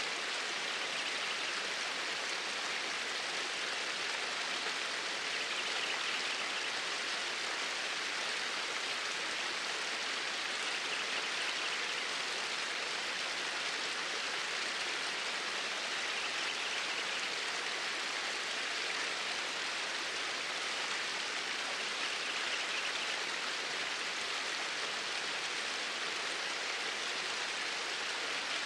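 Flowing stream water, a steady, even rush of water.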